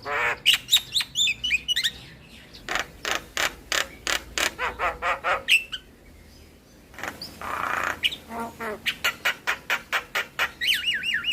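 Javan myna (jalak kebo) song: long runs of rapid dry clicking notes, about four to five a second, mixed with harsh squawks and short whistled glides. There is a brief lull in the middle, and a fast warbling trill near the end.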